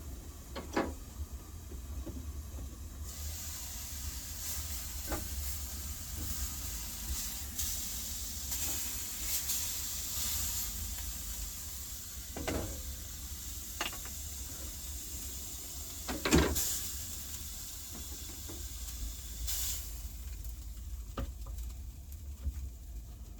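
Steaks sizzling in a frying pan, a high hiss that starts about three seconds in and dies away near the end. Several sharp knocks come through it, the loudest about sixteen seconds in, over a low steady hum.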